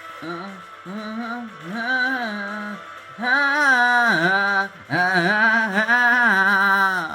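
A woman singing a wordless vocal ad-lib in long, sliding held notes with vibrato, over soft musical accompaniment; the voice gets much louder and fuller about three seconds in.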